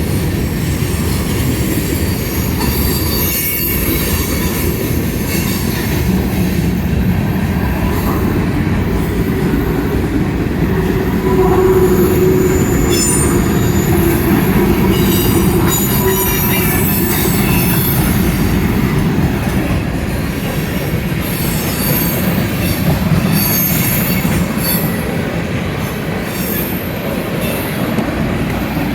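Freight cars of a CSX mixed freight train rolling past with a steady heavy rumble of steel wheels on rail, and intermittent high-pitched wheel squeal.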